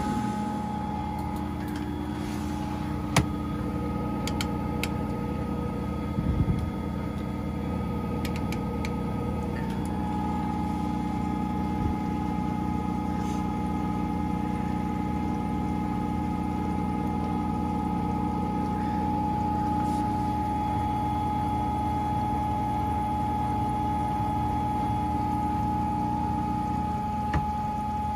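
Washing machine running a down (duvet) wash programme with bedding: a steady hum with water sounds and a few short clicks.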